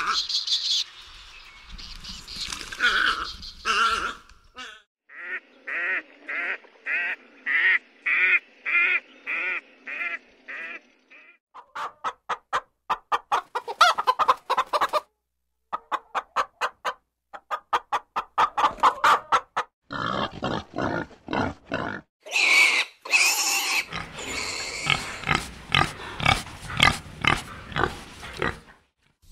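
A string of different animal calls in short clips cut one after another. They run from a steady series of pulsed calls about two a second, to fast trains of short clicking pulses, to noisier, harsher calls near the end.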